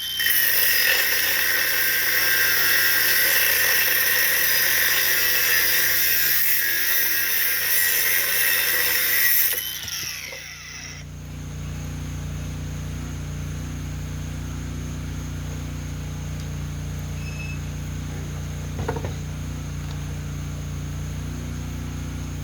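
Power tool cutting steel bumper pieces: a loud, steady, high-pitched whine that stops about ten seconds in. After it, a steady low hum continues.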